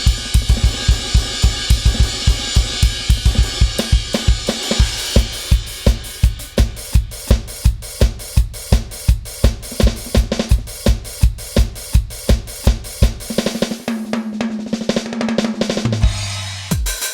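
KAT Percussion KT4 electronic drum kit played in a steady groove: bass drum at about three beats a second with snare, hi-hat and crashing cymbals. Near the end a held low tone sounds for a few seconds before the kit sound changes.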